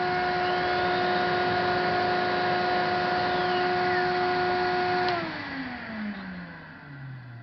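İhlas Aura Cleanmax vacuum's motor running steadily at its highest setting with a steady whine, then switched off about five seconds in, its pitch falling as it winds down.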